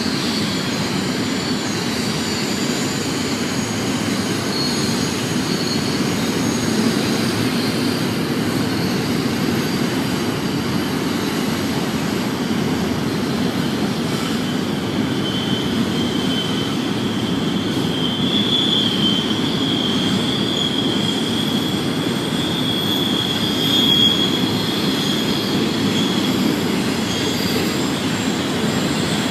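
BNSF intermodal freight train's cars rolling steadily past, a continuous rumble with high-pitched wheel flange squeal on the curve. The squeal grows louder from about halfway through.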